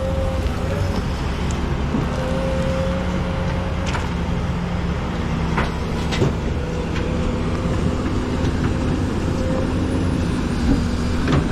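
Diesel dump truck engine running steadily, with a wavering whine over it and a few sharp knocks about four and six seconds in.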